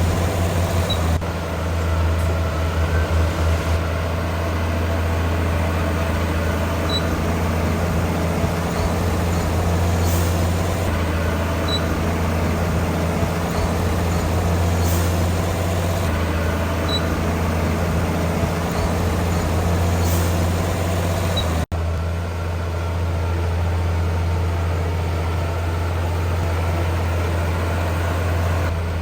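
Heavy diesel engine of earthmoving machinery running steadily under a deep low hum, with an abrupt break about two-thirds of the way through, after which the engine carries on.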